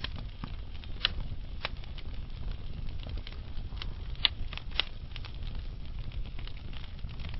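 Wood logs burning in a fireplace, crackling: irregular sharp pops and snaps over a steady low rumble. The loudest snaps come about a second in and around four seconds in.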